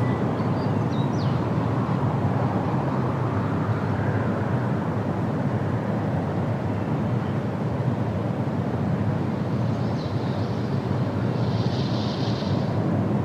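Steady wind through forest trees, a deep even rushing. A bird gives a few short high chirps in the first second or so, and again faintly near the end.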